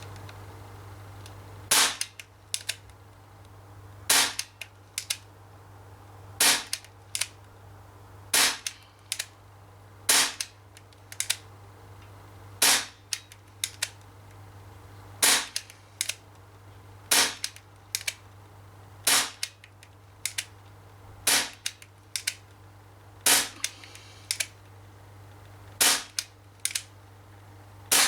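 Umarex XBG CO2 BB pistol fired in slow, steady succession, about a dozen sharp pops at roughly one every two seconds. Each pop is followed by a fainter click.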